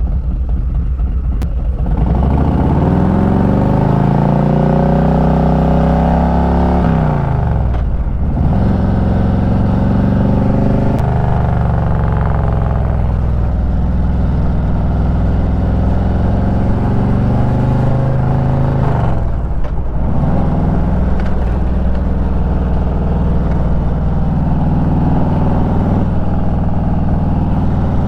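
Loud motorcycle engine pulling away about two seconds in and accelerating, its pitch climbing and then dropping sharply at gear changes, twice, before running on steadily.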